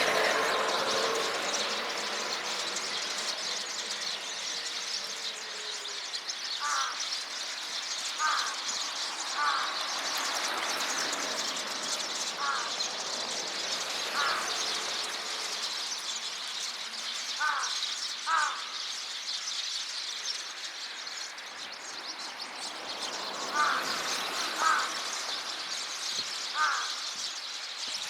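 A flock of Eurasian tree sparrows chirping and chattering continuously. Louder, lower calls cut through about ten times, singly and in pairs.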